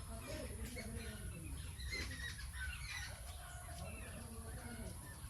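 Birds calling: many short chirps overlapping with some lower clucking calls, over a steady low rumble.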